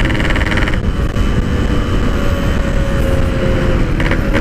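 Yamaha RX-King two-stroke motorcycle engine heard from the rider's seat under way, with wind noise. About a second in the throttle is rolled off and the bike coasts on a lower, softer engine note, then the throttle opens again near the end.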